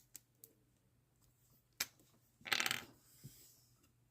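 Small hard objects handled on a workbench: a few light clicks, a sharp click a little under two seconds in, then a brief rattling clatter about half a second later.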